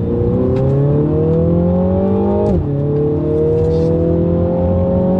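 Mini John Cooper Works Clubman's 2.0-litre turbocharged four-cylinder engine, breathing through a valved Remus Race exhaust in sport mode, pulling hard under acceleration. The revs climb, drop sharply at an upshift about two and a half seconds in, then climb again.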